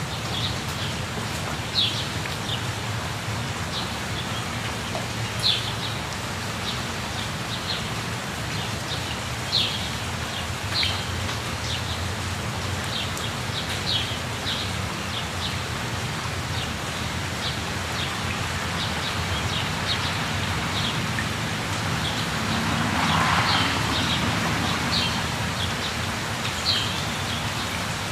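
Steady rush of a waterfall with birds giving short, high chirps every second or two; the rush swells briefly about three-quarters of the way through.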